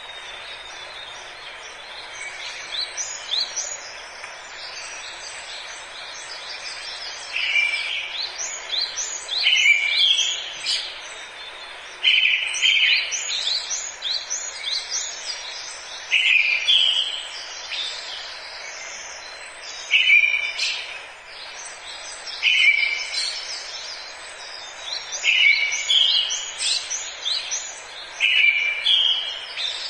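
Forest ambience: several birds chirping and calling in quick, short sweeps over a steady background hiss. Louder calls come every two to three seconds from about a quarter of the way in.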